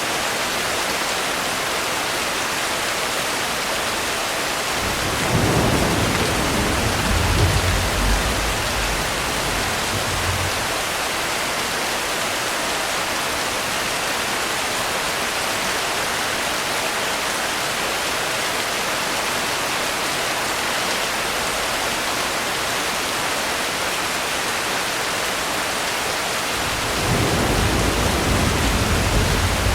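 Steady rain hiss, with low rolls of thunder: one rumbles about five seconds in and dies away after about five seconds, and another starts near the end.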